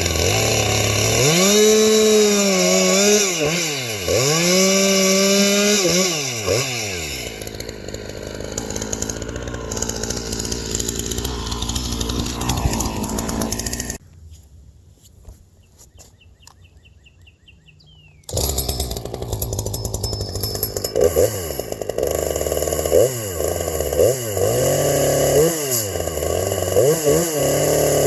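Two-stroke chainsaw, with a piston modified by gas porting, running at high revs, its pitch repeatedly dipping and climbing back. It drops away to a much quieter stretch about halfway through for a few seconds, then runs and revs hard again.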